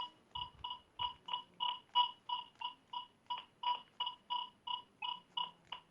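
Kvasar ARM metal detector giving a rapid series of short, evenly spaced beeps, about three a second.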